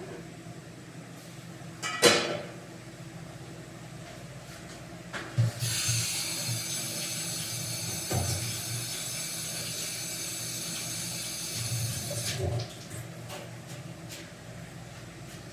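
A sharp knock about two seconds in, then water running steadily for about seven seconds before cutting off suddenly, over a faint low hum.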